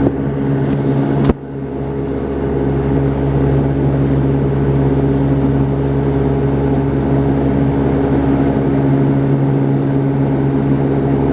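Cabin drone of a Saab 340B's twin turboprop engines and propellers: a steady hum with several fixed tones over a rushing noise. A sharp click comes about a second in, and the sound dips briefly before settling again.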